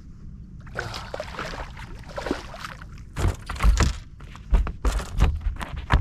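Water splashing, then a run of irregular thumps and knocks in a small fishing boat, about two a second from around three seconds in.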